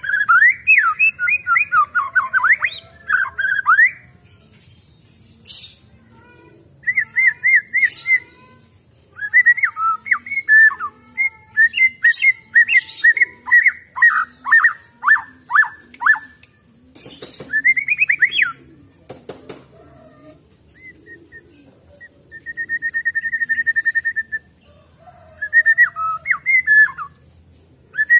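White-rumped shama (murai batu) singing in bursts of quick, sweeping whistled notes and sharp clicks, with short pauses between phrases and one steady trill a little past the middle. Song of the kind played as a lure to set a silent shama singing.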